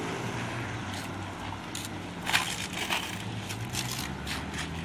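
A few sharp crunches and rustles, loudest about two and a half seconds in, over the steady hum of a vehicle engine.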